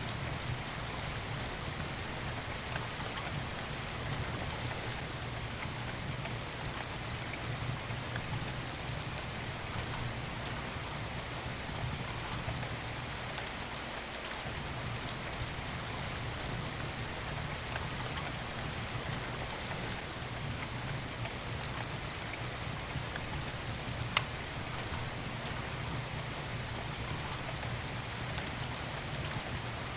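Steady rain falling, an even hiss of drops, mixed with a fireplace; one sharp pop from the fire stands out about 24 seconds in.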